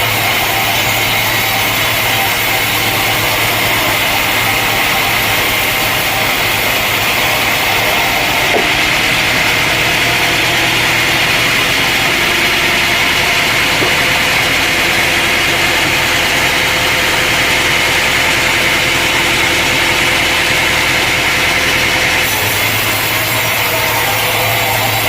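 Sawmill running steadily: an engine hum under the continuous noise of a saw blade cutting through wood.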